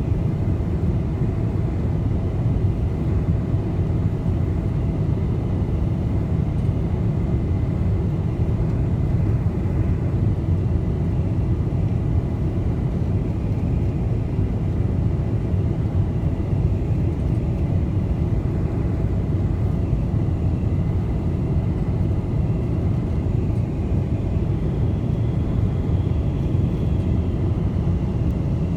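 Steady low rumble of a Boeing 747 heard from inside the passenger cabin: engine and airframe noise, with a faint high whine running through it.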